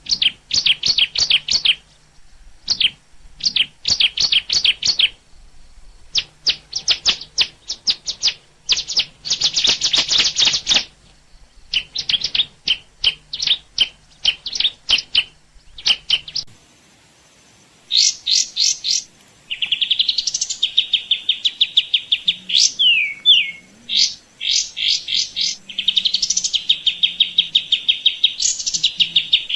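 Small birds chirping in rapid runs of repeated high notes. About halfway through the recording changes to a different birdsong: long, steady high trills broken by short falling notes.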